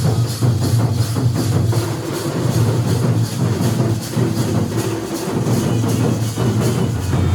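Indian dhol and nagada drums beaten in a fast, steady, driving rhythm, with a heavy low boom under the strokes.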